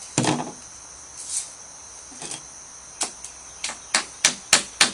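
Sharp knocks from the jacking and shimming work: a thump just after the start, a few scattered taps, then a run of knocks about a third of a second apart near the end. A steady high-pitched trill runs underneath.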